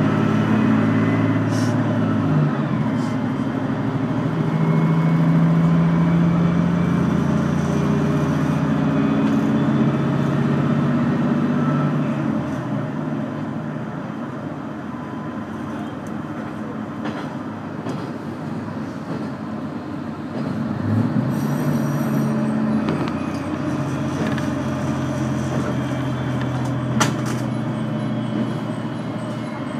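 A diesel railcar running, heard from inside the passenger cabin: a steady engine drone with wheel and rail noise. The drone eases off about halfway through and picks up again near the end, with a few sharp clicks from the track.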